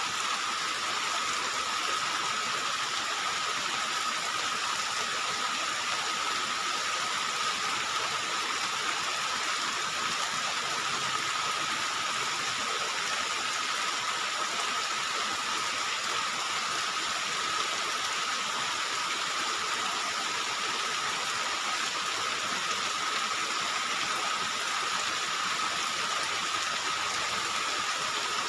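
Heavy rain falling, a steady even hiss that does not change, with a faint steady high tone running under it.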